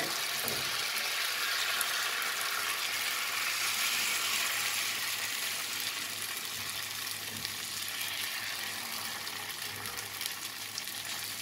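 Thin whole-wheat flour batter sizzling in oil on a hot iron tawa: a steady, even hiss that eases slightly toward the end, with a faint low hum beneath it.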